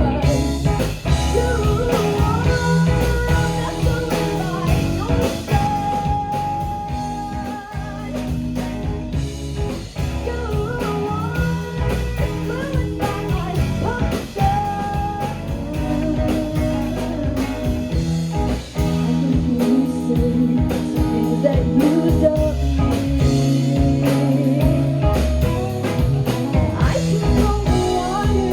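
Live blues-rock band playing, with electric guitar, a steady drum beat and sung vocals.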